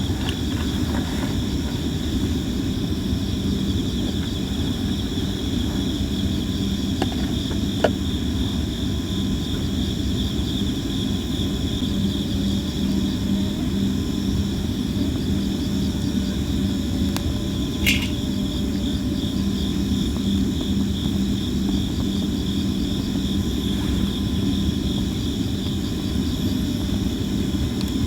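Sawara cypress wood burning in a campfire, crackling with occasional sharp pops, the clearest about 8 seconds in and again about 18 seconds in. Under it, a steady low rumble and a continuous pulsing chorus of insects.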